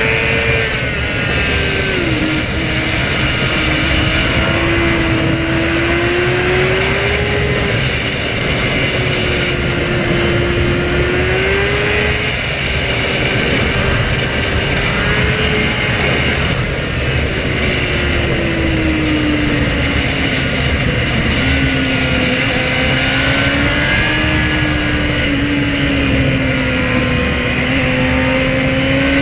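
Inline-four sportbike engine running on the road. Its note rises and falls in slow sweeps as the rider rolls on and off the throttle, with a sharp dip about two seconds in, over a steady rush of noise.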